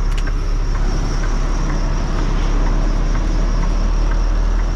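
Semi-truck diesel engine running, heard from inside the cab as a steady low rumble with a constant high hiss and a few faint ticks.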